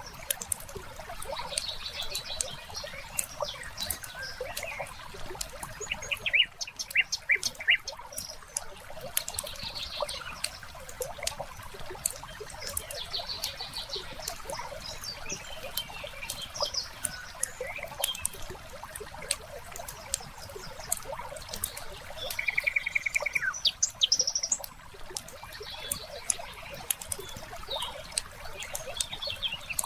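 Wood fire crackling with scattered pops, under birds chirping, with a fast trill a little past the middle.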